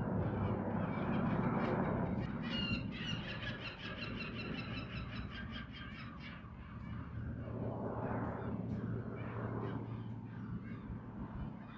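Helicopter rotor and engine hum, swelling and fading as it circles. A bird gives a quick run of harsh calls from about two and a half seconds to six seconds in.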